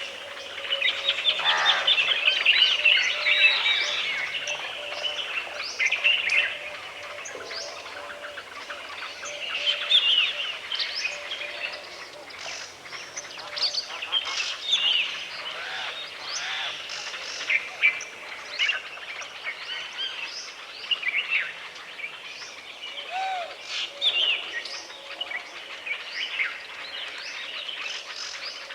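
Woodland birds chirping and calling in overlapping chorus, with a dense run of calls in the first few seconds, then scattered chirps.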